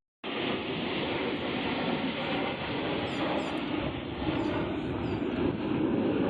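Aircraft engine noise: a loud, steady rush that starts suddenly a moment in and holds.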